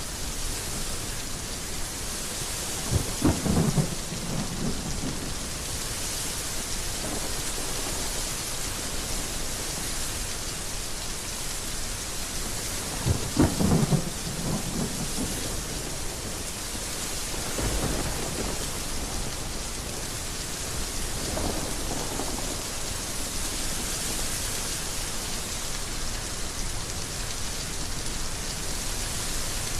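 Heavy rain falling steadily, with thunder rumbling twice, about three and thirteen seconds in, and fainter rumbles later.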